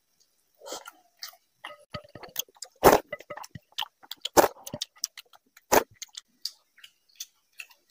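Close-miked chewing of a mouthful of rice and fish curry: a run of wet mouth clicks and smacks, with three louder sharp clicks about three, four and a half and six seconds in.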